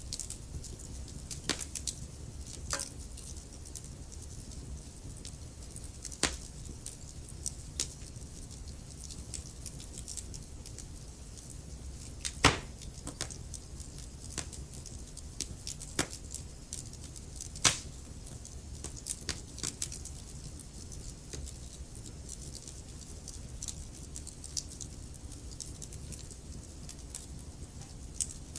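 Wood logs burning in a fireplace, crackling with scattered sharp pops and ticks over a low steady rumble of the flames, and a few louder pops now and then.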